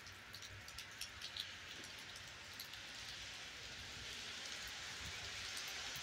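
Light rain falling: a faint, even hiss with a few scattered drop ticks in the first seconds, growing slightly louder toward the end.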